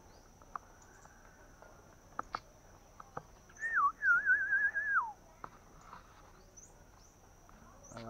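A bird calling: one clear warbling whistle in two short phrases about three and a half seconds in, the second phrase trilling before dropping away. Under it runs a steady high-pitched insect drone.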